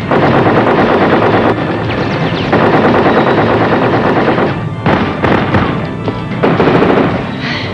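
Bursts of rapid automatic gunfire sound effects over dramatic action-score music, with a few heavier hits about five seconds in.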